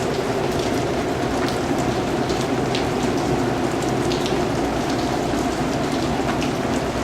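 Steady rain falling, a constant hiss with scattered distinct drops tapping through it.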